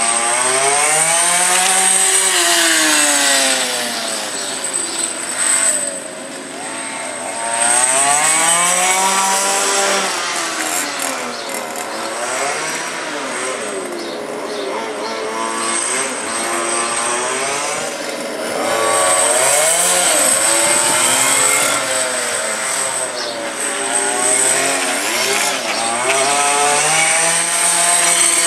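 Small two-stroke petrol engines of 1:5-scale FG radio-controlled race cars revving up and down again and again as they lap, the pitch rising and falling every couple of seconds, at times two engines at once. A steady high whine runs underneath.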